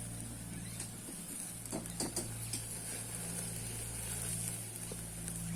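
Meat sizzling on a grill over open flame, with a few small crackles and a steady low hum underneath.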